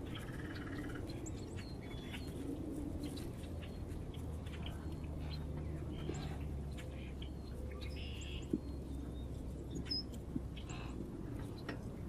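Small songbirds chirping at a bird feeder: short, scattered calls over a steady low rumble, with a few sharp taps in the second half.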